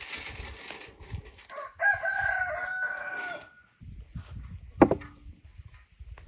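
A rooster crowing once: a long, held crow starting about two seconds in and lasting under two seconds. A single sharp knock follows near the end.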